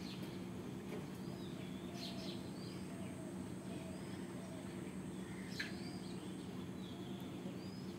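Faint short bird chirps, scattered a few times over the seconds, over a low steady hum.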